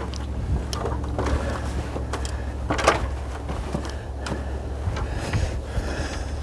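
Scattered knocks and scrapes of outdoor construction work, with one sharper knock about three seconds in, over a steady low hum.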